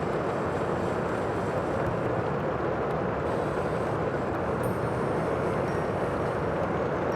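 Steady, unbroken rushing of the sea, with no single wave standing out.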